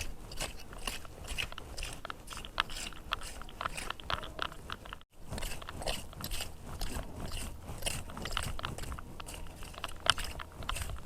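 Clam scraping through beach sand, with shells and grit crunching and clicking irregularly. There is a brief cut-out about five seconds in.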